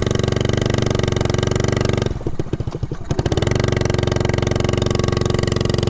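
1969 Honda Z50 mini bike's small four-stroke single-cylinder engine running under way. About two seconds in it drops for about a second to a slow, separate putter of firing pulses, as the rider lets off to change gear, then picks back up to a steady run.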